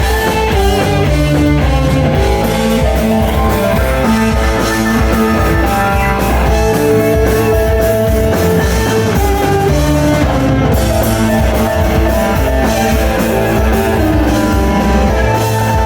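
Live rock band playing loudly, with electric guitar and drum kit, no vocals heard.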